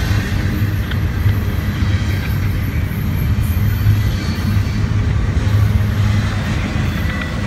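Double-stack intermodal freight train rolling past close by: a steady low rumble of steel wheels on rail, with a few light clicks.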